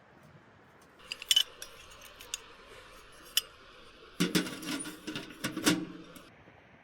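Hard kitchenware being handled: a few sharp clinks, then a short burst of clattering about four seconds in.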